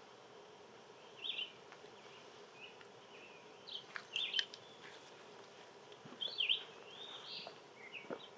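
Small birds chirping in short calls and quick sweeping notes, in bunches about a second in, around four seconds in and again past six seconds, over a faint steady drone.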